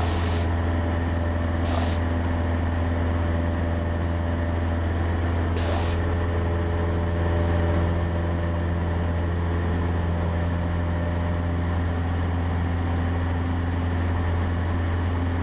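Cessna 150's four-cylinder Continental O-200 engine and propeller droning steadily inside the cabin in flight, a deep, even hum with steady higher tones over it.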